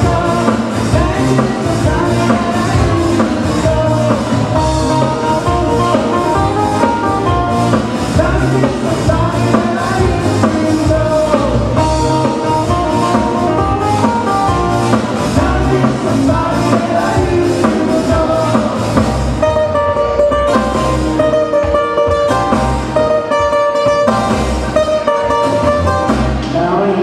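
Live band playing Hawaiian music: guitar, bass and drum kit over a steady beat.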